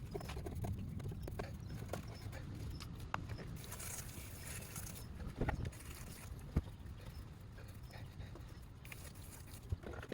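Scattered light clicks and knocks of tools and parts being handled during car work, over a low steady rumble, with sharper knocks about five and a half and six and a half seconds in.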